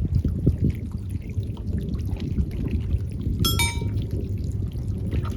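Rough, gusty rumble of strong sea wind buffeting the microphone, mixed with the sea. About three and a half seconds in there is a brief high-pitched squeak.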